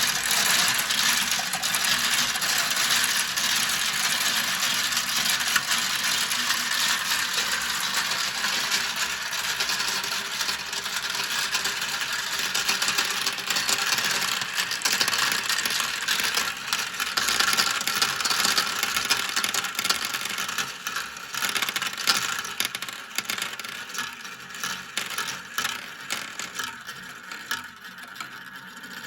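Many marbles rolling and clattering down a plastic marble-run track: a dense, continuous rattle of clicks that thins toward the end into separate clacks as fewer marbles are still running.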